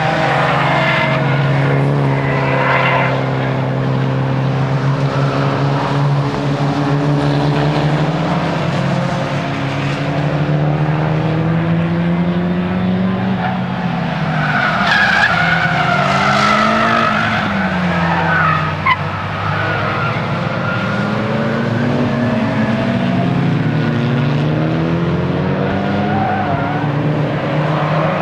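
Nissan S15 Silvia's four-cylinder engine under hard driving, its revs repeatedly climbing and dropping, with tyres squealing, most strongly about halfway through.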